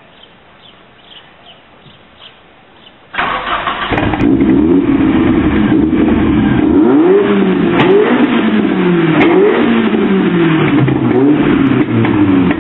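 Opel Kadett E GSi with individual throttle bodies and a Remus sport exhaust being started: the engine catches abruptly about three seconds in and runs loud. From about six seconds in it is blipped repeatedly, the revs rising and falling several times. Faint bird chirps come before the start.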